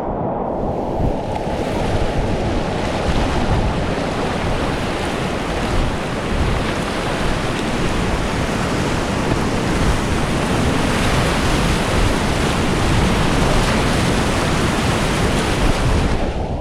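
Loud, continuous rushing of big whitewater rapids heard from a kayak running them, with water noise close to the microphone.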